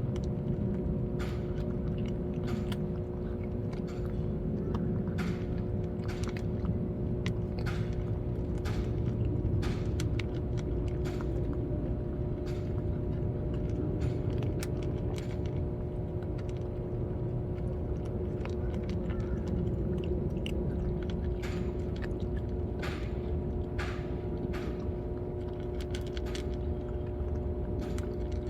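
Several cats chewing their food, with many short, irregular crunching clicks over a steady low hum and rumble.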